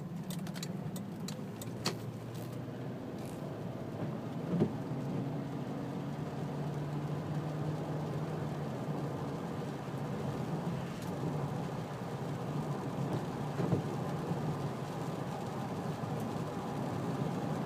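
Cadillac running at road speed, heard from inside the cabin: a steady low engine and road drone with a few light knocks, during a test drive to check that the 4T80E transmission's torque converter lockup engages.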